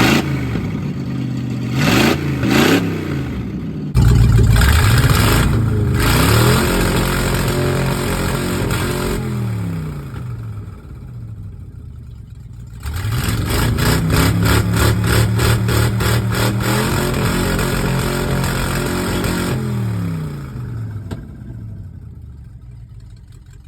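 Ford 302 V8 on open headers, blipped a few times and then twice held flat out near 6,000 rpm for several seconds, each time gliding back down to idle. At the top the revs hang rather than climb: valve float acting as a natural rev limiter.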